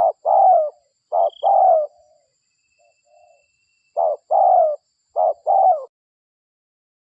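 Spotted dove (derkuku) cooing in short-and-long coo pairs, each longer note falling in pitch. The calls pause briefly in the middle, then resume, and stop about six seconds in.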